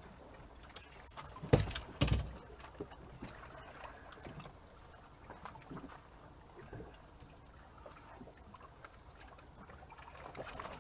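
Faint water sounds around a small fishing boat, broken about one and a half seconds in by two loud thuds, about half a second apart.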